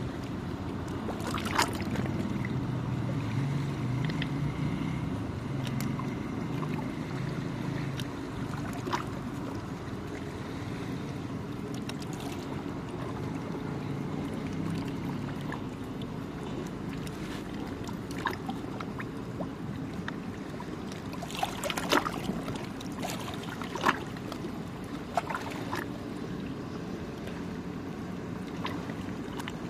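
Small sea waves lapping at the shore, with short sharp splashes every few seconds and a cluster of them about two-thirds of the way through, over a steady low rumble.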